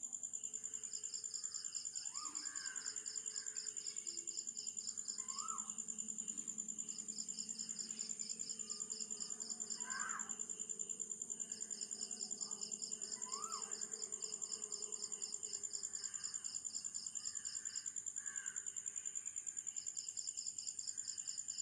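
Insects trill steadily in a rapid, high-pitched pulse, while a second, lower pulsing trill starts and stops in runs of a few seconds. Birds give about five short, separate calls over the top.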